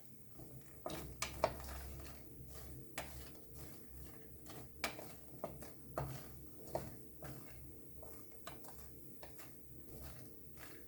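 A spoon stirring fox nuts toasting in ghee in a deep pan: scattered light clicks and knocks at irregular intervals as the spoon and the nuts hit the pan.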